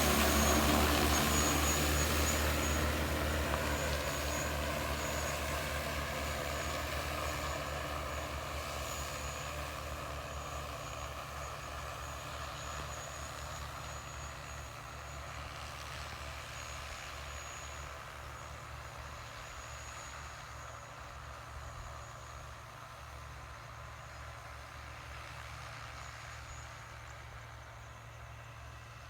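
Crop-spraying drone's motors and propellers running with a faint high whine, fading steadily as it flies away.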